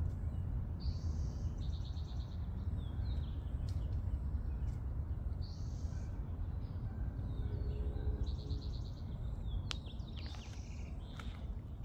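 Birds calling in trees: short high chirps and two quick pulsed trills, over a steady low rumble and a few light clicks.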